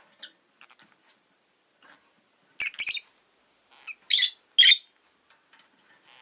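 Rosy-faced lovebirds chirping: faint scattered chirps, a quick run of short calls about two and a half seconds in, then two loud shrill calls around four seconds in.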